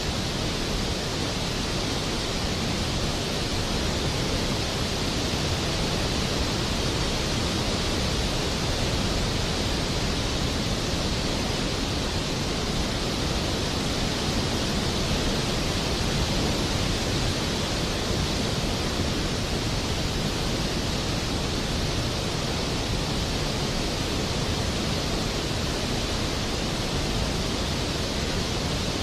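Steady rain, an even hiss that never changes, with no thunder and no music.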